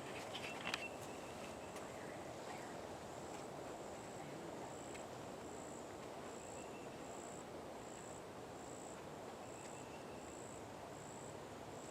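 An insect calling in the woods: a high chirp repeating about every three-quarters of a second, with a few faint cracks near the start.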